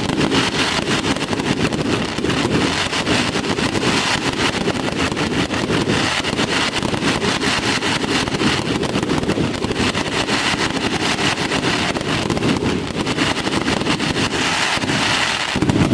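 Aerial fireworks in a dense continuous barrage, a steady loud crackling of many rapid pops with no break, which the watchers take for the pre-finale.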